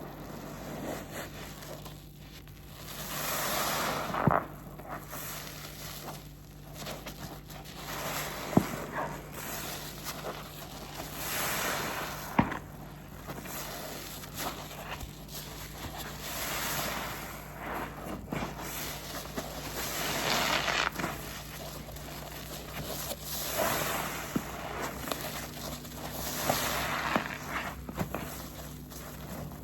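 Pink waffle-textured car-wash sponge, soaked in blue detergent, squeezed and wrung by hand over and over. Each squeeze is a wet squish lasting a second or two, about seven in all, with short sharp clicks in between.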